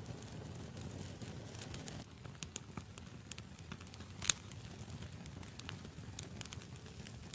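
Wood campfire burning with a low rumble and irregular crackles, with one loud sharp pop a little after four seconds in.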